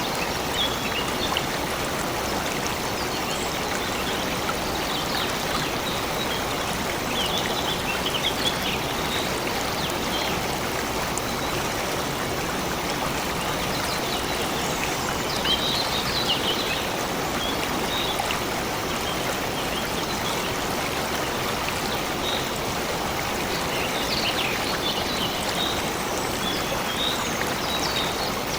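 A stream flowing steadily, with short bursts of high twittering from small birds every few seconds.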